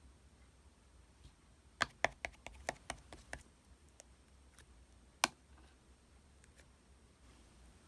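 Slime being handled by hand: a quick run of about ten sharp clicks and taps over a second and a half, then one more a couple of seconds later.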